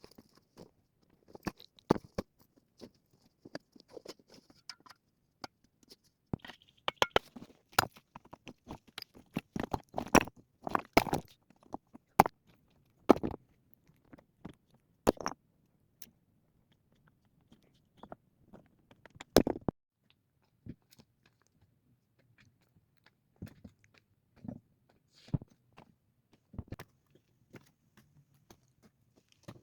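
Irregular sharp knocks, clicks and crunches of hand work, thickest in the middle, with one louder knock a little before the two-thirds mark.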